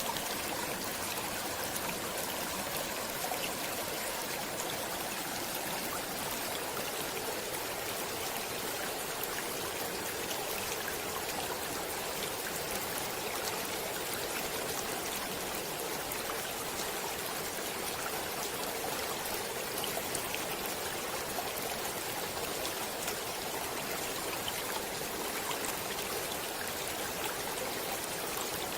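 Stream water flowing and trickling steadily, an even rushing with faint splashes.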